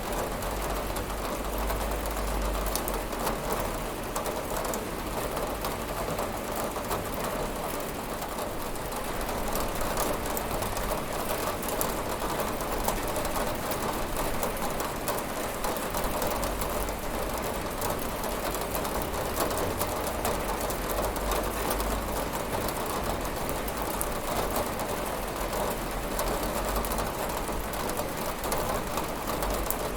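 Steady rain falling on a window: an even hiss with many small drop ticks.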